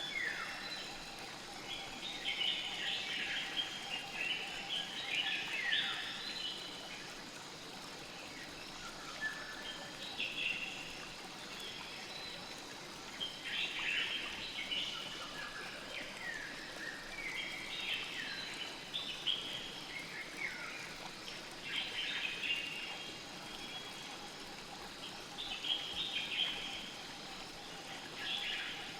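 Songbirds chirping in clusters of quick, falling notes every few seconds over the steady rush of a flowing river.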